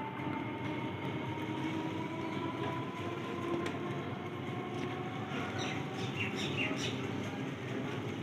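Electric multiple unit (EMU) local train running into a station, a steady rumble with a faint electric whine that drifts slightly lower in pitch. A few short high squeaks come about six seconds in.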